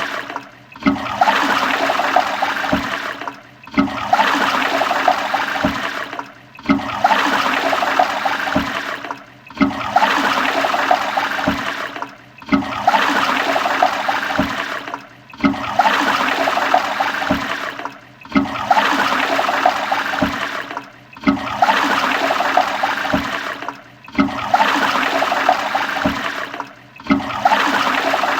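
Toilet flushing: a rush of water that stops and starts again about every three seconds, the same flush repeated over and over as a loop.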